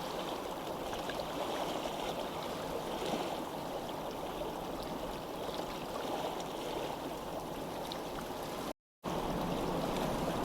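Steady rushing of flowing water, like a stream, with faint small splashes. It cuts to dead silence for a fraction of a second about nine seconds in, then resumes slightly louder with more low rumble.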